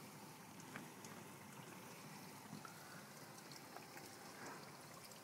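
Faint trickle of leaking water with a few small ticks scattered through it.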